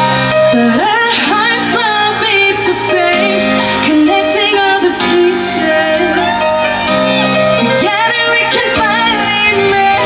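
Female pop vocalist singing live over a keyboard-led backing band, her voice gliding and bending through long held notes over sustained chords.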